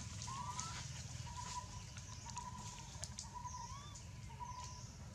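A bird repeating a short whistled note at a steady pace, about once every half second, over a faint high hiss.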